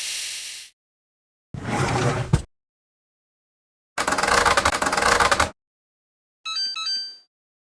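Washing machine in short spliced clips: a steady motor hum cutting off under a second in, a brief burst of drum rattling, a longer rattling stretch, then near the end a quick run of electronic beeps at stepping pitches from its control panel.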